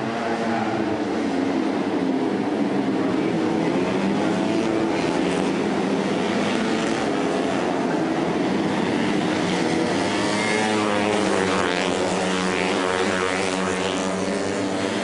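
Racing motorcycles running hard on a race circuit, several engines at high revs with their pitch rising and falling as they shift and pass; more engines overlap, wavering in pitch, from about ten seconds in.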